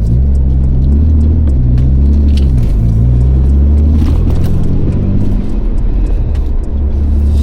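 Car engine and road noise heard from inside the cabin while driving: a steady low engine hum whose pitch dips and rises about two to three seconds in, as with a gear change, and shifts again near the end.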